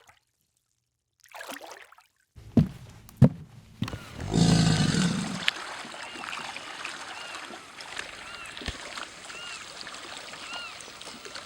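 Outdoor ambience with a steady watery hiss and a short high chirping call repeated about once a second, after a couple of sharp knocks and a louder burst near the start.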